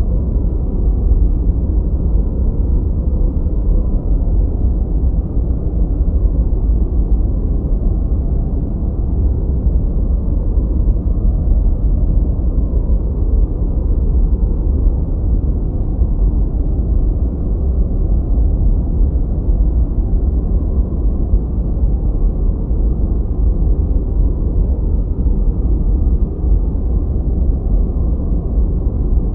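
Continuous generated noise, steady and unchanging, deep and muffled: mostly low rumble with almost no high hiss.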